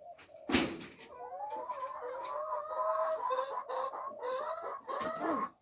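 Backyard chickens clucking and calling, several voices overlapping in a run of drawn-out calls. A sharp knock sounds about half a second in.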